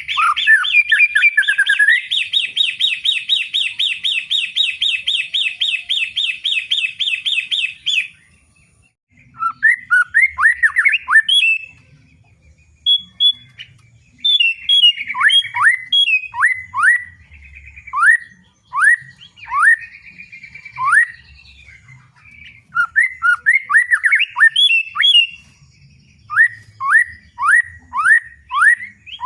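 White-rumped shama (murai batu) singing loudly in full 'ngeplong' voice: a rapid trill of quickly repeated notes for about eight seconds, then, after a short pause, series of clear whistled notes that each slide downward, at about one to two a second.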